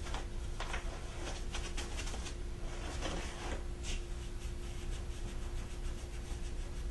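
A scrubber rubbing a coffee maker's housing in short, irregular scratchy strokes, working a baking-soda paste into stains and acid buildup, over a steady low hum.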